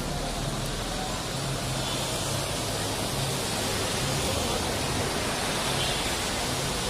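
Steady rain falling, an even hiss, with a low hum underneath.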